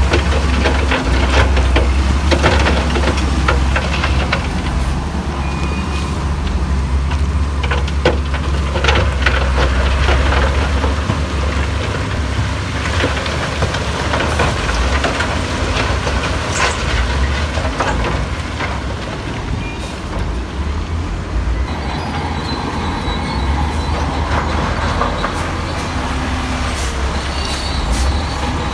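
Heavy diesel earthmoving machinery running under load, a deep steady engine rumble with frequent knocks and clatter. A reversing alarm beeps intermittently in the last several seconds.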